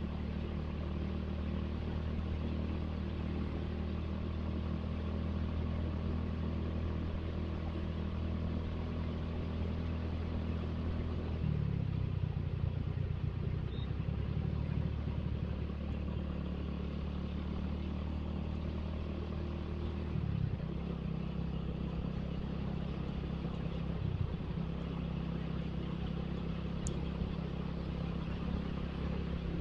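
Suzuki Satria FU motorcycle's single-cylinder four-stroke engine running steadily on the move, its engine note changing about a third of the way in and again about two-thirds in, as with throttle or gear changes, over a steady rush of road noise.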